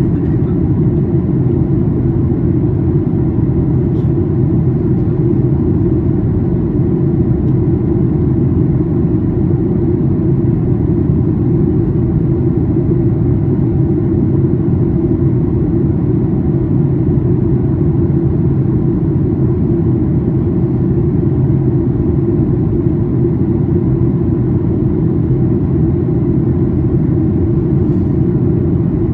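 Steady cabin noise of a Boeing 737-800 in descent: the low, even rumble of its CFM56-7B turbofan engines and airflow over the fuselage, heard from inside the cabin.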